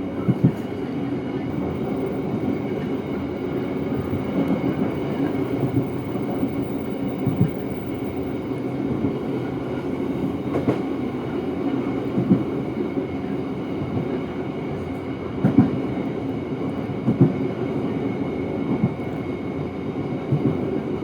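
Passenger train running, heard from on board: a steady rumble with a short knock every few seconds.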